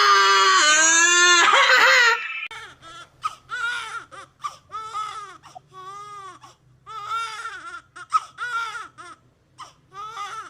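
A loud, long wailing cry that falls in pitch and breaks off about two seconds in. It is followed by a run of short, arching crying calls over a faint low hum.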